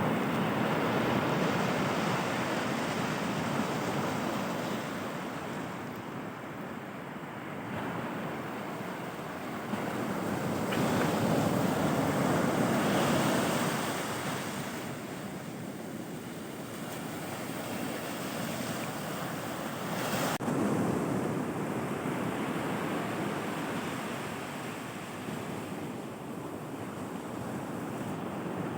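Sea surf washing up the beach, its noise swelling and ebbing every several seconds, with wind on the microphone.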